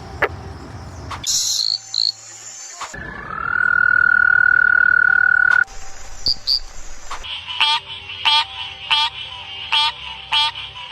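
Frog calls from several species, cut one after another: brief high chirps, then one steady trill held for about two and a half seconds, then a run of short repeated calls, roughly three every two seconds.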